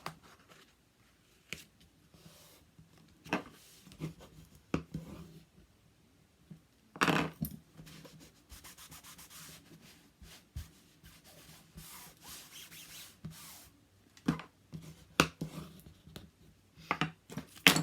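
Paper and cardstock being rubbed down and handled on a work surface, with scattered taps and knocks. A louder scraping rub comes about seven seconds in, then several seconds of quick fine rubbing.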